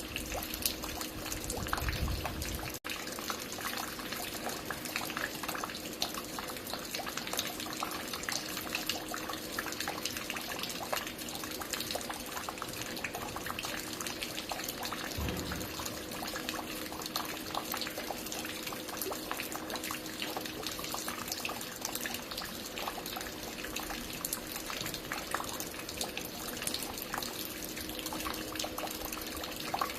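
Water falling and dripping at a construction site: a steady dense patter of drops splashing, with a faint steady hum beneath. A brief low thud sounds about two seconds in and again near the middle.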